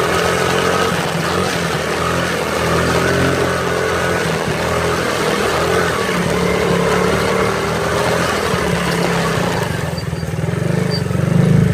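Small motorbike engine running continuously, growing louder near the end.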